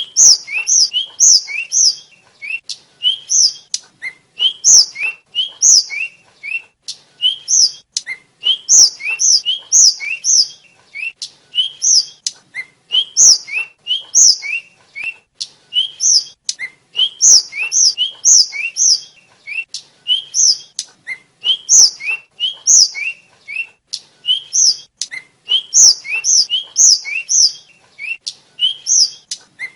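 Tledekan (sikatan flycatcher) calling over and over: short paired chirps, a quick rising lower note followed by a sharp high one. They come about one to two a second, sometimes in fast runs of three or four.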